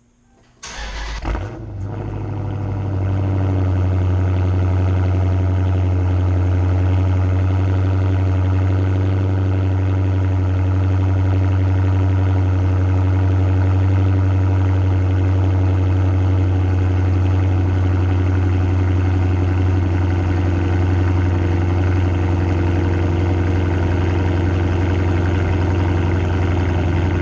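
Dodge Challenger Scat Pack's 6.4-litre HEMI V8, mufflers deleted, starting up: it fires with a sudden loud flare of revs under a second in, then settles into a steady, loud idle.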